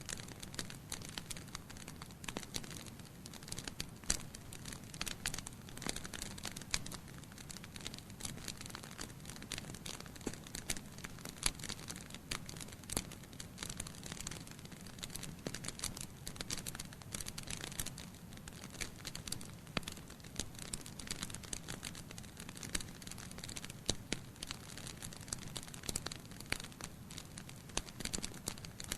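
Wood fire in a fireplace with logs burning: irregular sharp crackles and pops throughout over a steady low rumble of the flames.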